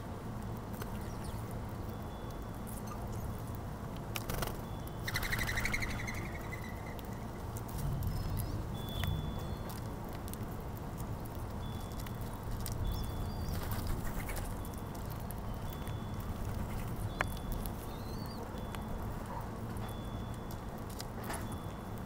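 Small birds giving short, high chirps every second or two over a steady low rumble, with a brief noisy flutter about five seconds in.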